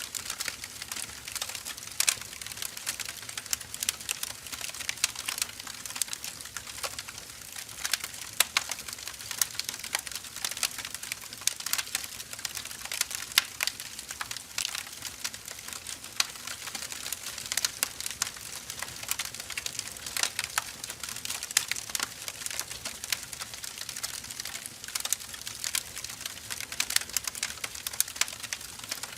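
Burning firewood logs crackling and popping irregularly, with many sharp snaps over a soft hiss of the fire.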